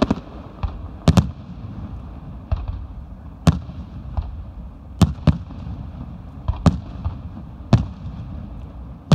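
Aerial fireworks shells bursting: a dozen or so sharp bangs at irregular intervals, some in quick pairs, over a steady low rumble.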